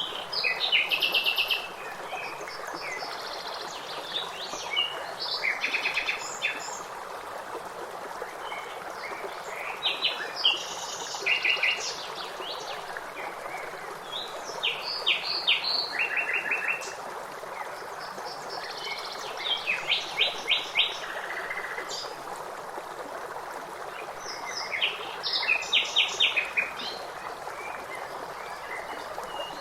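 Songbirds singing in short phrases of rapid repeated high notes every few seconds over the steady rush of a stream.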